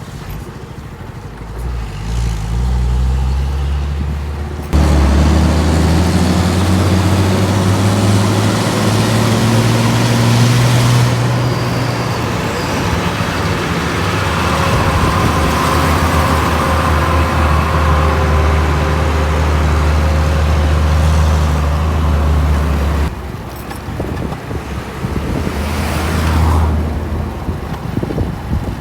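Heavy truck engine running loud and steady with road noise. It starts abruptly about five seconds in and drops away a little before the end, leaving quieter traffic noise.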